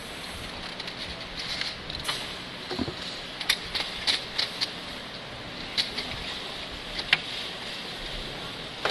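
Steady workshop machinery noise with irregular sharp clicks and taps scattered through it.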